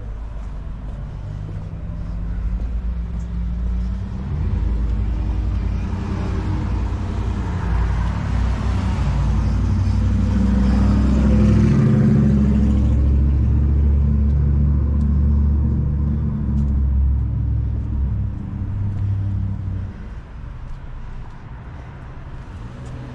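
A motor vehicle's engine running close by with a low steady hum. It grows louder to a peak about halfway through, with a hiss at its loudest, then fades away near the end.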